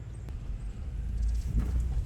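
Low road and wind rumble from a moving vehicle, growing louder, with a few faint knocks in the second half.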